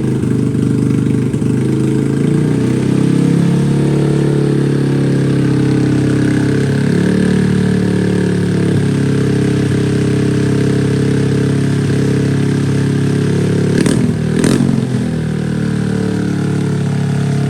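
Honda Grom's 125 cc single-cylinder engine running steadily, just swapped into the bike and firing with its intake tube off. There are two sharp snaps about 14 seconds in, half a second apart.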